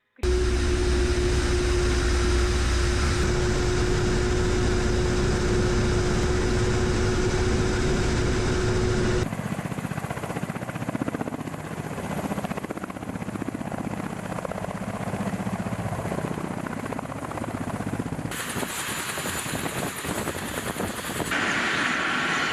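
Ka-52 attack helicopter running: steady rotor and turbine noise in several clips cut together. A steady hum tone runs through the first part, and the sound changes abruptly at cuts about nine and eighteen seconds in.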